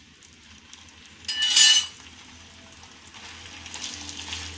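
Ghee sizzling under a just-turned paratha in a nonstick frying pan, louder in the last second and a half as a silicone spatula presses it down. About a second and a half in comes one short, loud clatter with a metallic ring.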